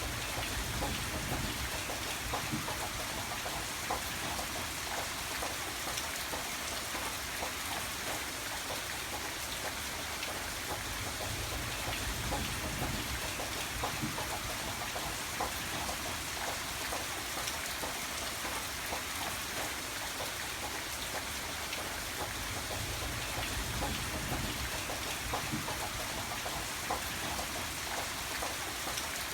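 Steady rain with many separate drops ticking over an even hiss. A low rumble swells and fades a few times underneath.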